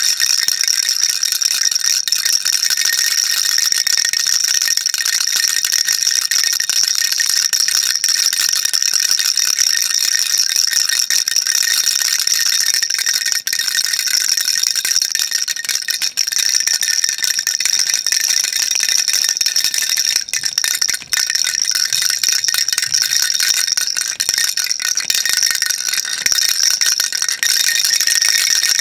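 Baby rattle shaken continuously: a dense, steady, high-pitched stream of small beads clattering inside it, with a couple of brief let-ups.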